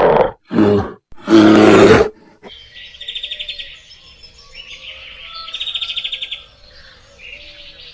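An animal's loud, rough calls in three short bursts, then birds chirping with quick trills about three and six seconds in.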